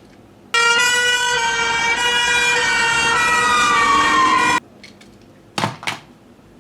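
Toy ambulance's electronic siren sound effect, a loud buzzy tone with one pitch slowly sliding down, starting and stopping abruptly after about four seconds. Two short clicks follow near the end.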